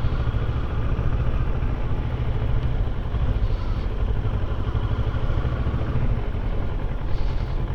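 Kawasaki motorcycle engine running steadily while riding on the road.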